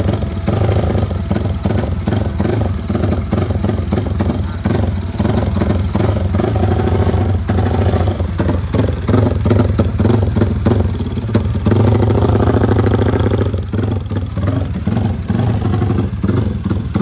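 Yamaha Vixion drag-race motorcycle's single-cylinder four-stroke engine running with an uneven, surging throttle, revved up harder for a moment about twelve seconds in.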